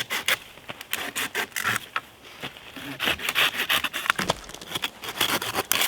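Wood being worked by hand: an irregular run of sharp cracks, snaps and rubbing scrapes, with no steady sawing rhythm.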